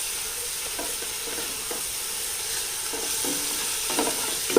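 Thick biryani masala paste frying and sizzling in a pot while a spoon stirs it, with a steady hiss and short scrapes of the spoon against the pot, a few sharper ones near the end.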